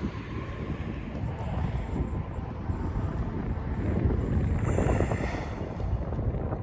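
Amtrak Cardinal passenger train going by: a steady low rumble of the train on the rails with wind on the microphone, and a brief high squeal about five seconds in.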